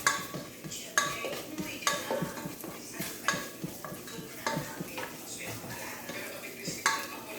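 A metal utensil stirring in a cooking pan, clinking and knocking against it at an irregular beat of about once a second.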